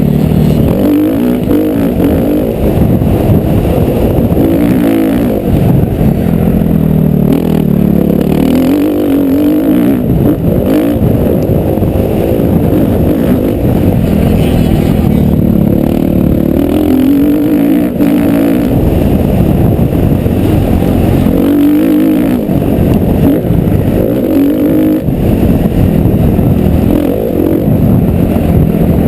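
Motocross bike engine revving hard, its pitch climbing and dropping back again and again as the bike is ridden round the track.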